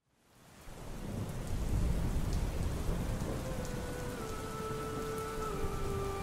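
Rain sound effect fading in over the first second: a steady hiss of rain with a low rumble of thunder and scattered drop ticks. About halfway, a few steady held tones come in and step slightly lower in pitch.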